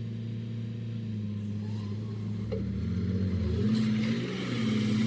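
Heavy diesel engine of earthmoving machinery running steadily. About halfway in its pitch shifts as it revs or takes on load, and a rushing noise joins it near the end.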